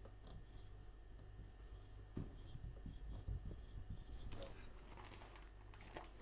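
Faint scratching and rustling handling noises over a steady low electrical hum, with a few soft knocks about two, three and four seconds in.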